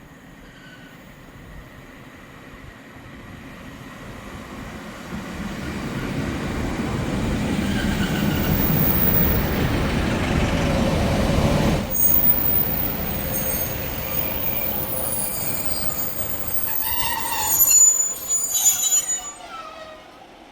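A train on the railway line: its rumble builds over several seconds as it approaches and runs by, then high-pitched squealing comes near the end before the sound dies away.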